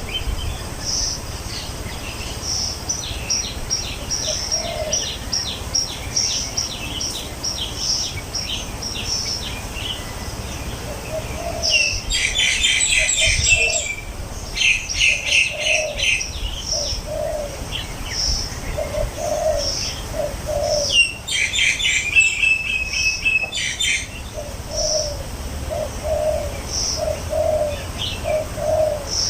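Several birds calling: a dove cooing in repeated paired low notes, another bird repeating short high notes, and twice a louder stretch of busy, dense song. A steady low rumble runs underneath.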